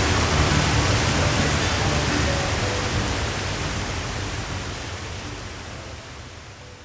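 Steady rushing roar of a large waterfall with soft background music underneath, both fading out gradually over the last few seconds.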